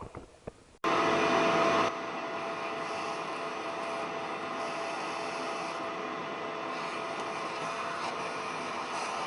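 Vacuum cleaner switched on about a second in, louder for its first second, then running steadily with a steady whine, used to suck out metal debris left by the spark plug thread repair.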